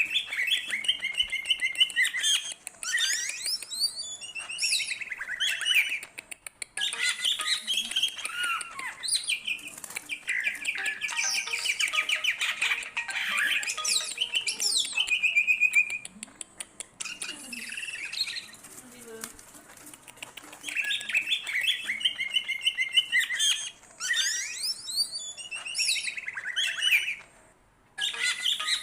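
Green leafbird (cucak ijo) singing in full voice: long runs of varied whistles, fast trills and chattering notes that slide up and down, in several bouts with short breaks, about a third of the way in, past the middle and near the end.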